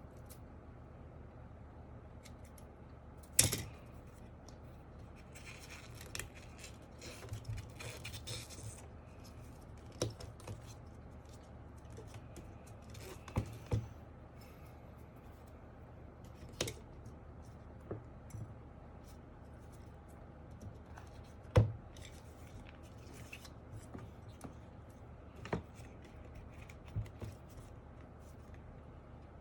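Hands cutting and handling foam sheet for a keyboard foam mod: scissor snips, scraping and tearing, with scattered small clicks and two sharp knocks, one a few seconds in and one about two-thirds of the way through.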